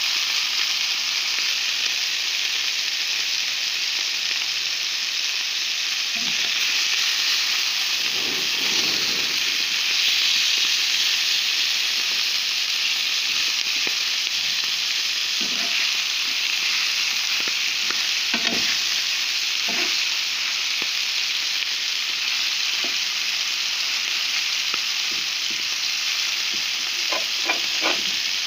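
Merguez sausages and sliced meat sizzling in hot fat in a pan: a steady frying hiss with scattered small ticks and crackles, and a few sharper clicks near the end.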